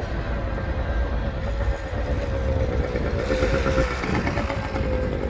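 A 1979 Yamaha DT125 dirt bike's two-stroke single-cylinder engine running while being ridden. Its pitch climbs a little and it gets brighter from about two seconds in.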